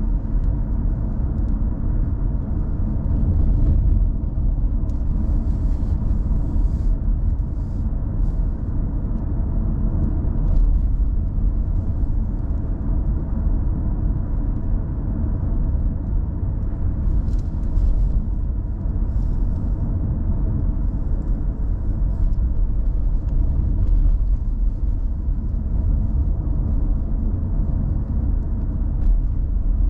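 Car driving on the road, heard from inside the cabin: a steady low rumble of engine and tyres, with faint brief higher sounds now and then.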